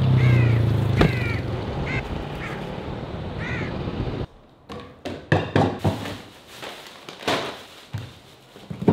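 A bird calling outdoors, five short harsh calls over steady street noise with a low hum at the start. About four seconds in, this gives way to a quiet room with scattered knocks and rustles of groceries being unpacked from a plastic bag onto a counter.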